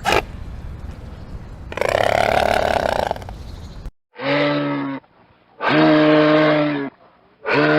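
Animal calls: a harsh, noisy grunt, then three long, steady low calls about a second apart.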